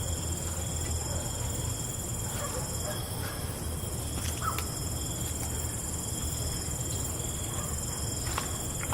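Crickets trilling steadily in a night ambience, over a low steady rumble, with a few short high chirps from some other creature about halfway through.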